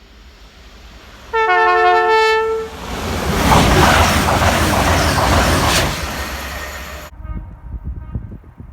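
A train horn sounds once for about a second and a half, two notes together, then the train passes at speed with a loud rushing rumble for about four seconds before the sound cuts off abruptly, leaving a faint rumble.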